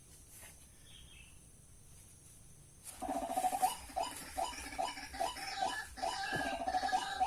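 White-breasted waterhen (ruak-ruak) calling: a fast run of repeated croaking notes, about three a second, beginning about three seconds in after faint background.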